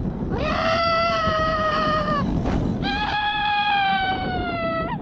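Two long screams, each held for about two seconds at a nearly steady pitch that sinks slightly toward the end, over a low rumbling background.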